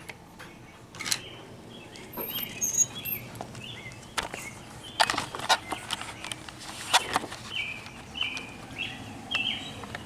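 Several birds chirping in short repeated notes, over a few sharp clicks and knocks as the storm door is unlatched and pushed open.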